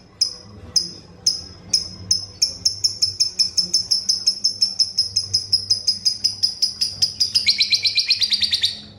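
Fischer's lovebird (the 'fighter' type) giving its long ngekek song: sharp high chirps about half a second apart that speed up into a rapid chatter, breaking into a lower, harsher trill near the end.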